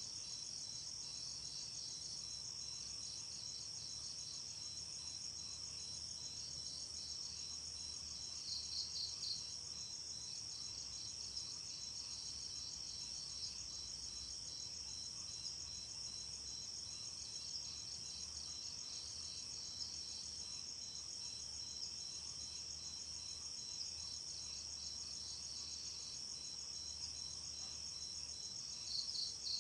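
Crickets chirping in a dense, steady high trill, with a second rhythmic chirp beneath it that swells louder twice, about nine seconds in and near the end.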